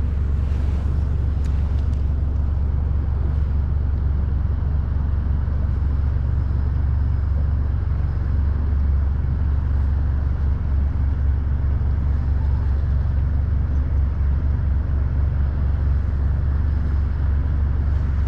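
Boat's outboard motor running steadily at a constant low speed.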